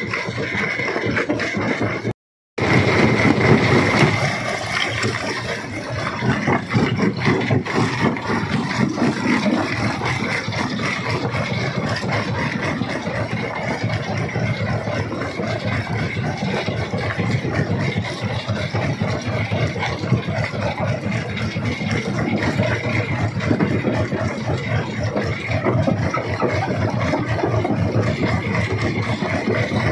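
Stone crusher running: a steady engine drone under dense rattling and knocking of rock being broken. The sound drops out completely for a split second about two seconds in.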